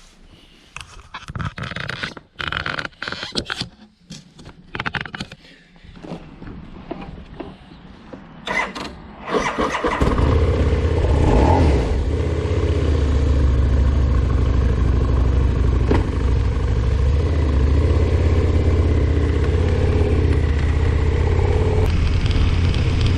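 Scattered knocks and rustling of handling for about nine seconds, then a Harley-Davidson V-Rod's V-twin engine starts about ten seconds in and idles steadily with a deep rumble.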